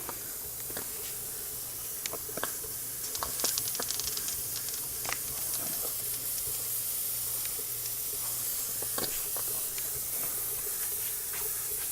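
Steady steam hiss from a small model steam engine and its boiler, with scattered light clicks. The boiler is running close to its safety-valve pressure.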